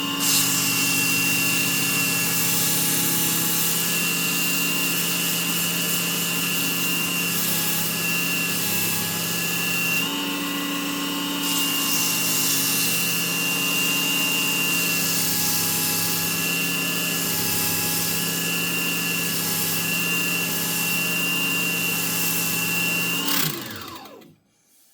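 Small benchtop wood lathe running steadily: a constant motor hum and whine with a scratchy hiss from the spinning wood being worked. It is switched off near the end and the sound stops quickly.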